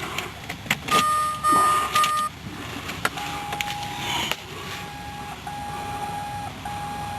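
A 2007 Ford Focus's warning chimes before the engine is started. A few clicks, then three short high beeps about a second in, then a lower chime that repeats about once a second, each tone nearly a second long.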